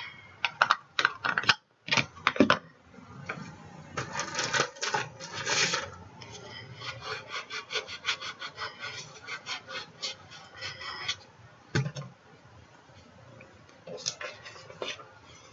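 Paper-crafting supplies being handled on a desk: several clicks and knocks, then rubbing and scraping against paper, then a run of quick light ticks, and one sharp click about twelve seconds in.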